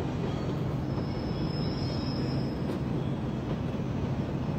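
A train running on the tracks, a steady low noise, with a faint high squeal from about a second in to halfway through.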